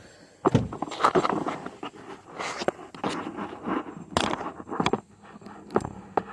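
A string of irregular knocks, clicks and scrapes, as of objects and tools being handled and moved about.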